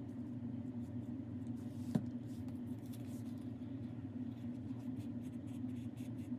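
Steady low background hum in a small room, with faint light ticks and a single sharp click about two seconds in.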